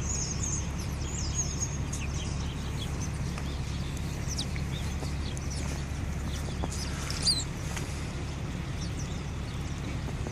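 Small birds chirping in short, high calls over a steady low outdoor hum, with scattered faint clicks and one brief louder chirp about seven seconds in.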